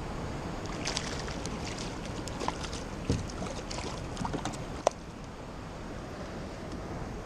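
Kayak on the sea: water sloshing against the hull with wind on the microphone, and a scatter of small knocks and clicks, one sharp knock about five seconds in.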